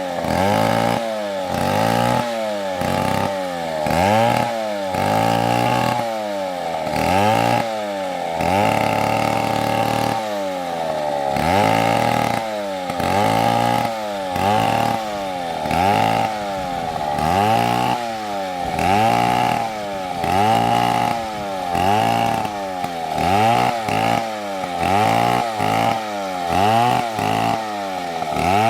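Chainsaw cutting through a tree, its engine pitch rising and falling about once a second as the bar takes and eases off the load, and holding steadier for a couple of seconds partway through.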